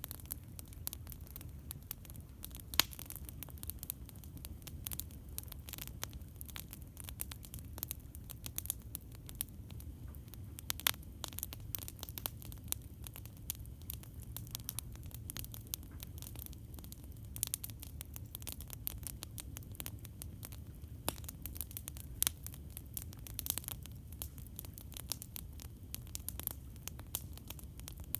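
Campfire burning with irregular crackles and sharp pops over a steady low rumble; the loudest pops come about 3 seconds and 11 seconds in.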